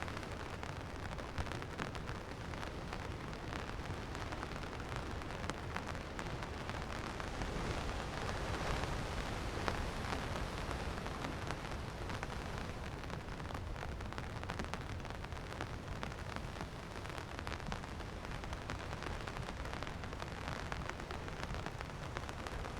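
Steady rain falling, with many separate drops heard tapping close by over a constant hiss.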